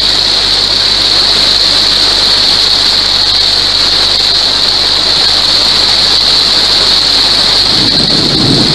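Heavy downpour of rain falling steadily onto a paved street, a dense unbroken hiss. A low rumble joins near the end.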